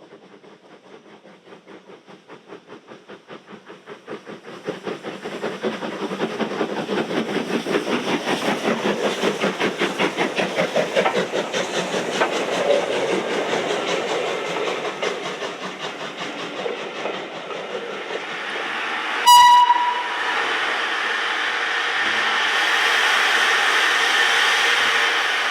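Steam locomotive working past, its exhaust beats growing louder and quicker as it approaches. A short whistle sounds about three quarters of the way through, followed by a steady hiss.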